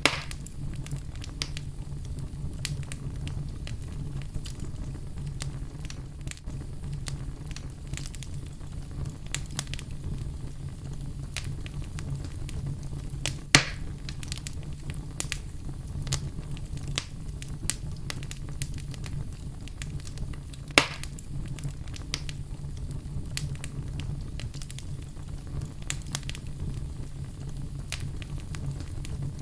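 Wood fire in a fireplace crackling, with many small snaps over a steady low rumble of burning. Three louder pops stand out: one right at the start, one about 13 seconds in, and one about 21 seconds in.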